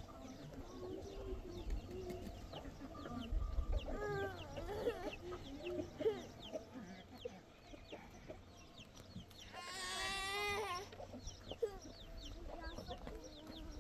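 Farmyard animal calls: fowl clucking, with small birds chirping throughout. One louder, longer call with a wavering pitch comes about ten seconds in.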